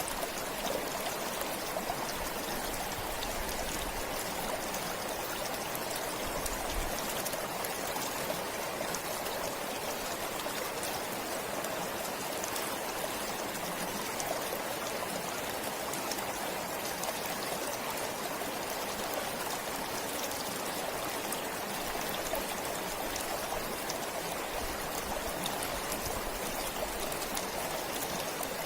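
A stream of water flowing steadily, an even, continuous rush with no breaks.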